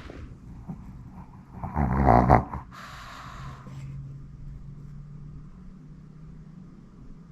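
A Pomeranian dog snoring in its sleep: one loud snore about two seconds in, followed by a breathy exhale.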